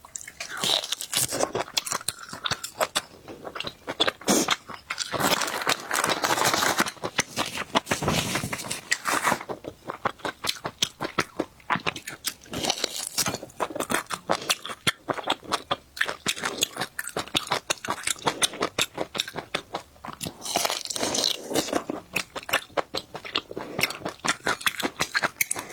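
Close-miked chewing and biting of crunchy food, most likely a piece of beef brisket (beef chest cut): a dense, irregular stream of crisp crunches with wet mouth sounds.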